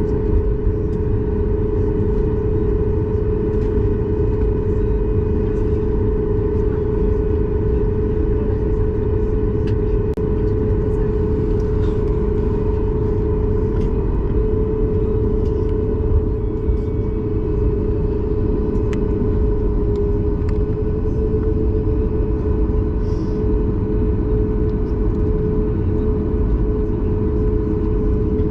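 Cabin noise of a Boeing 737 MAX 8's CFM LEAP-1B jet engines running steadily: a deep rumble with a strong, steady hum over it.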